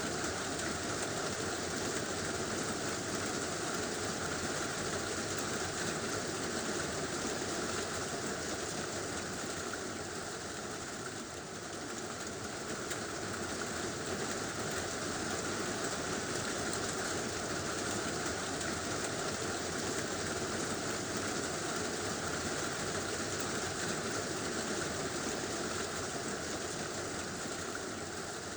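Heavy rain drumming steadily on a tin roof, a dense even hiss with a low rumbling undertone.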